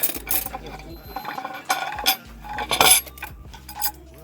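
Metal utensils clinking and scraping against dishes and serving pans, as a string of sharp clicks with louder clatters near the start and around two to three seconds in.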